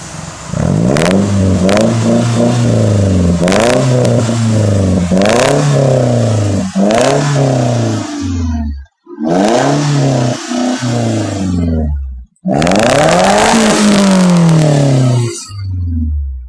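Suzuki Grand Vitara engine revved again and again through a Fujitsubo Racing aftermarket exhaust, each blip rising and falling in pitch, with sharp cracks at several of the peaks. The sound cuts out suddenly for a moment twice.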